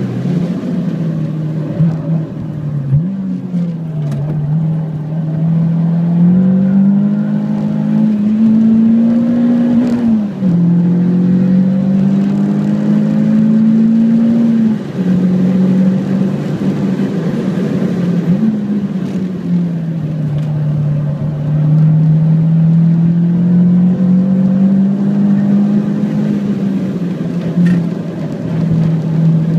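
Renault Clio 172 Cup's 2.0-litre four-cylinder engine heard from inside the cabin, pulling hard at speed. Its pitch climbs and falls with the revs, with a few sudden drops along the way, over steady tyre and road noise.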